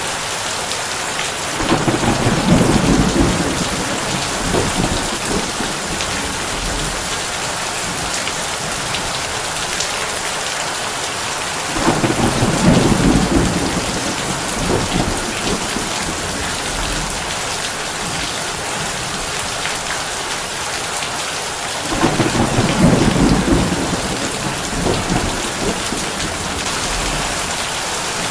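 Heavy rain drumming steadily on a tin roof, with three rolls of thunder about ten seconds apart, each rumbling for two or three seconds.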